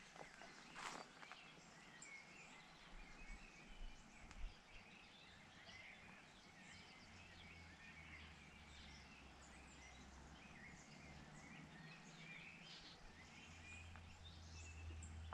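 Faint birdsong of many short chirps and twitters over quiet outdoor ambience, with a single rustle or step about a second in and a low steady hum coming in about halfway.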